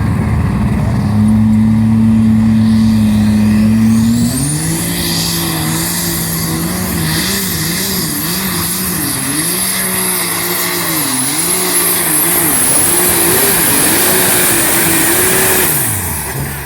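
Engine of a pulling vehicle held at steady high revs, then dropping to a lower note about four seconds in as it loads up against the sled, its revs rising and falling over and over as it works down the track. A high whine climbs in as the pull begins and holds. The sound fades and cuts off suddenly at the very end.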